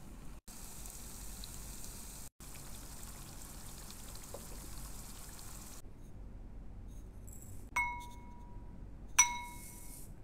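Whole spices and garlic gently sizzling in oil in a pan on low heat, a soft steady hiss. After that, a small glass bowl clinks twice with a short ring as dry chilli flakes and sesame seeds are tipped into it from a ceramic cup; the second clink is the louder.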